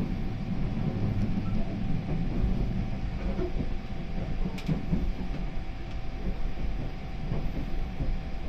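Running noise of a 285 series electric sleeper train heard inside the car as it rolls slowly into a station: a steady low rumble of wheels on rail with a few sharp clicks.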